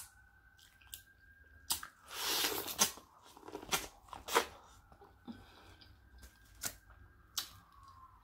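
Close-miked eating: crunchy bites and chewing of corn on the cob, in short bursts and clicks. Behind it a faint siren holds one long, slowly rising and falling wail.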